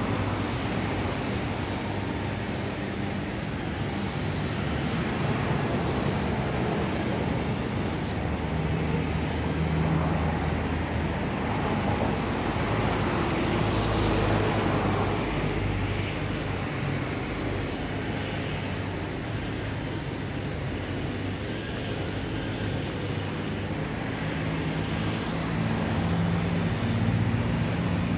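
Road traffic running on a busy avenue, mixed with the jet engines of an Airbus A321 airliner on approach; a pass-by swells and fades about halfway through.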